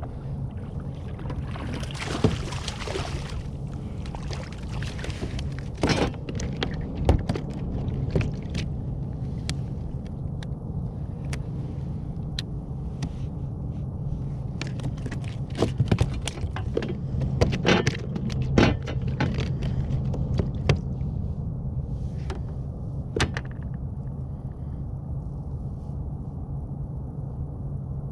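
Scattered knocks and clatter on a kayak, irregular and sharp, over a steady low rumble; the knocks thin out in the last few seconds.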